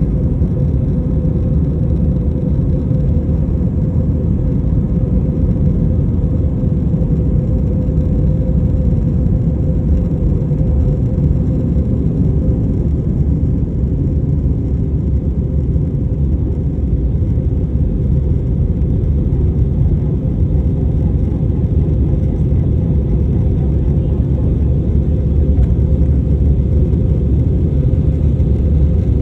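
Steady low rumble of a jet airliner during takeoff, with a steady hum riding on top and no change in pitch.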